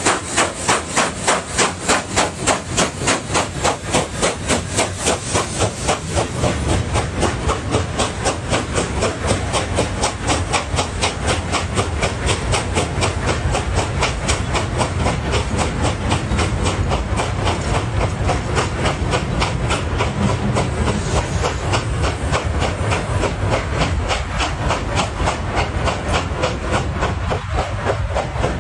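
A fast, steady rhythmic clatter, about three knocks a second, over a hiss and a low rumble.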